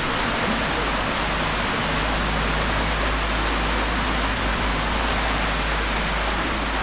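Loud, steady rush of falling water with no breaks or changes.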